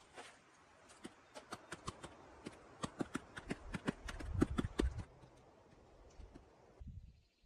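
A quick run of sharp knocks and taps, several a second, with a few heavier thuds just before they stop about five seconds in.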